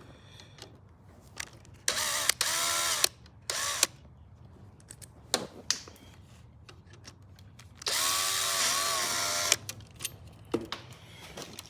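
Power drill running in three short bursts, the motor whining up to speed and winding down each time, the last burst the longest. Light clicks and handling knocks fall between the runs.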